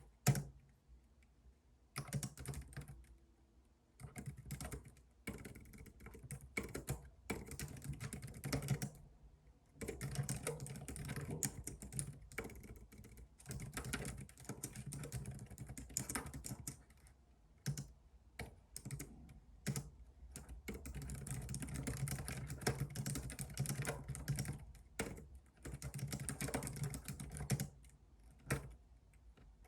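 Typing on a computer keyboard in runs of rapid keystrokes lasting a few seconds, broken by short pauses, with a sharp click just after the start.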